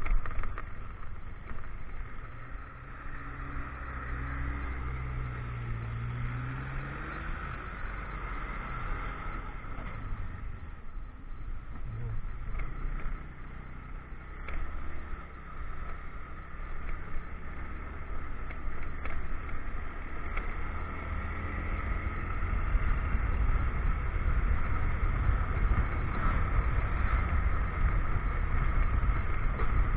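Motorcycle engine running while being ridden, with steady road noise. The engine pitch rises and falls in the first several seconds, and the whole sound grows louder about two-thirds of the way through.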